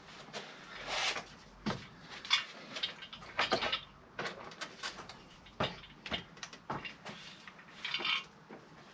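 Scattered clicks, knocks and short rustles of tools and parts being handled while working on a car engine.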